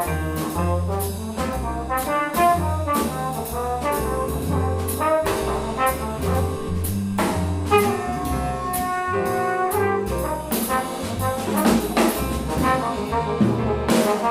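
Live small-group jazz: a bass trumpet plays a melodic line over a walking upright bass and drums with cymbals, the low bass notes changing about twice a second.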